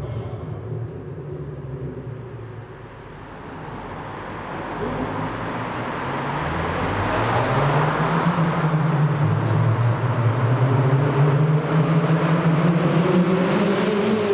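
Volkswagen Golf Mk3 engine and exhaust under way in a road tunnel: the revs drop over the first few seconds, then climb steadily and hold, rising again near the end, getting louder as it goes.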